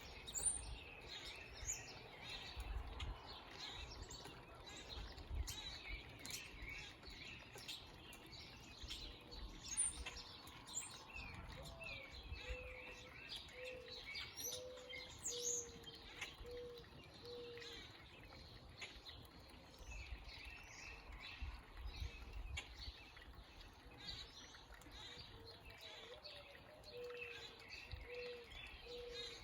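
Several backyard birds chirping and calling, with many short high chirps throughout. Twice a run of short, evenly repeated low whistled notes joins in, once around the middle and again near the end.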